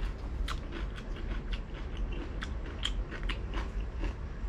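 Close-up chewing of crispy fried pork belly, with irregular sharp crunches and crackles several times a second over a low steady hum.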